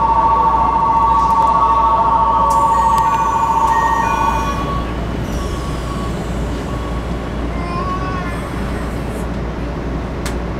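Inside a Keikyu New 1000 series train, a steady two-note electronic warning tone sounds for the first four and a half seconds while the doors close. Then the Toyo IGBT VVVF inverter starts to whine, rising in pitch near the end as the train pulls away.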